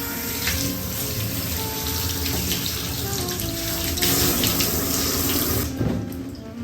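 Running water rinsing conditioner out of hair, a steady splashing rush that grows louder about four seconds in and then cuts off near the end. Background music plays over it.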